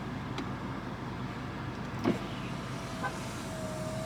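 Steady low hum of a car heard from inside the cabin, with a faint click about half a second in and a faint steady tone near the end.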